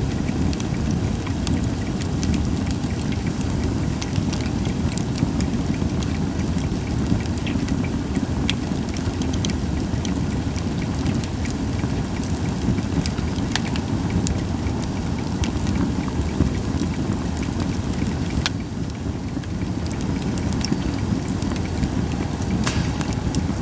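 Wood fire of Japanese white pine crackling, with frequent sharp pops and snaps over a steady low rumble.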